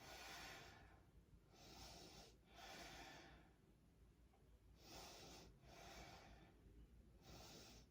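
Faint, slow breathing of a woman holding a shoulder stand: six soft breath sounds, each under a second, coming roughly in in-and-out pairs.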